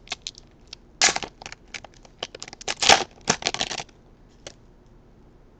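A trading card pack wrapper crinkling and tearing open, in a quick run of crackly rustles that stops about four seconds in.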